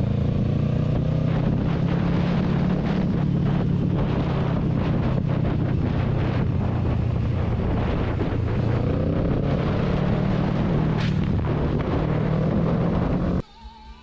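Vehicle driving along: a steady engine hum with wind and road noise on the microphone. It cuts off abruptly near the end.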